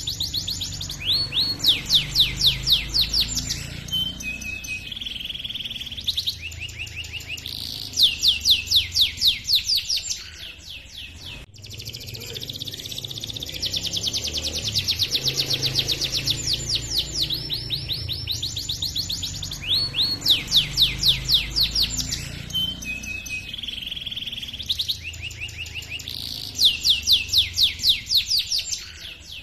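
Domestic canary singing a long, loud song of rolling trills: rapid runs of repeated sweeping chirps that change from phrase to phrase, with a brief break about ten seconds in.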